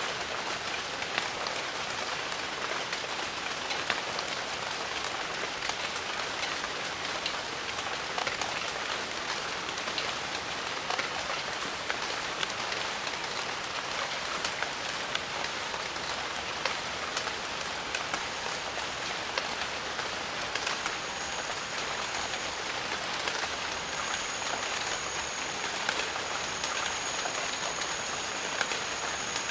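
Steady rain falling, with scattered individual drops ticking close by. About two-thirds of the way through, a thin, steady, high-pitched whine joins the rain and holds.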